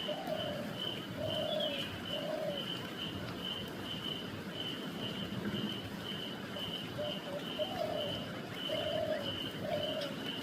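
A dove cooing in two phrases of three to four low notes, one at the start and one about seven seconds in. Behind it runs a steady series of high, short pips, about two a second.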